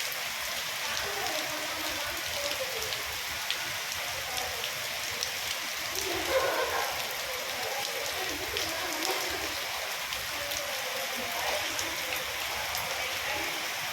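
Steady heavy rain falling, an even hiss with scattered drops ticking on surfaces.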